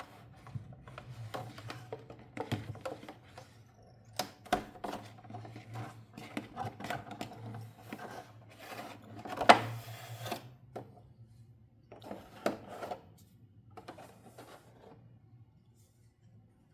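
Hands handling plastic toy pieces and packaging: irregular clicks, taps and short rustles, the loudest a sharp crackle about nine and a half seconds in.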